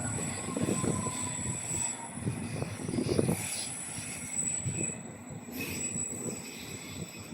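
A train passing on the rails: a steady low rumble with repeated wheel knocks, and a thin high-pitched wheel squeal running over it. The rumble eases a little in the second half.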